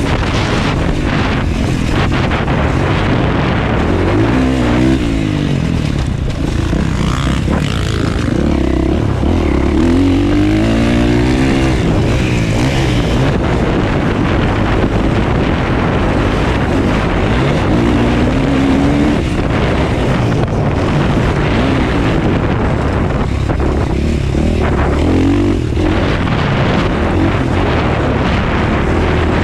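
Motocross dirt bike engine revving hard, its pitch climbing and dropping over and over as the rider throttles on and off and shifts through the gears.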